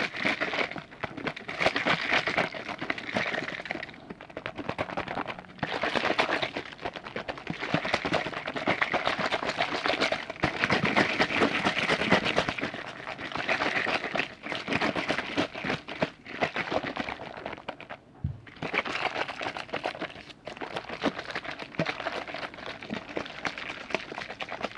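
Close-miked ASMR liquid sounds: a continuous, dense fine crackling with a few brief pauses.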